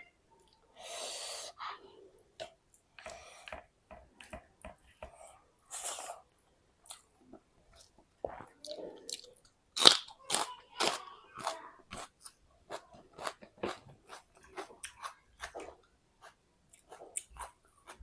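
Close-up eating sounds: a person chewing and biting, with many short crisp crunches, the loudest about ten seconds in.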